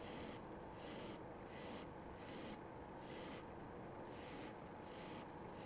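Sandpaper rubbing on a wooden mallet being sanded, a faint steady rasp with a brighter hiss that swells and fades about once a second.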